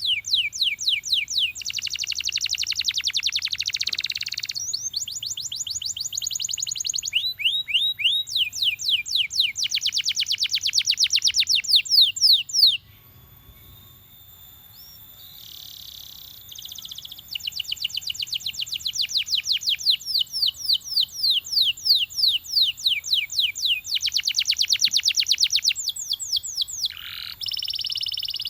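Belgian canary singing in long rapid trills of repeated quick descending notes, with buzzing rolls between them and a break of a couple of seconds in the middle.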